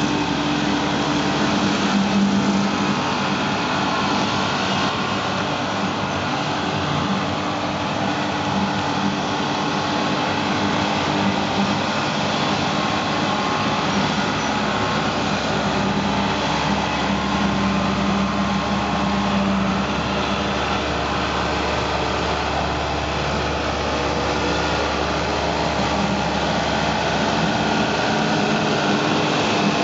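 Tractor engine running steadily while driving and working a slasher mower, with a constant drone that swells and eases a little now and then.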